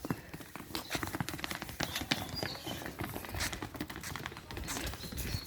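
Irregular clip-clop of cattle hooves as cows move over the ground, a quick scatter of dull knocks.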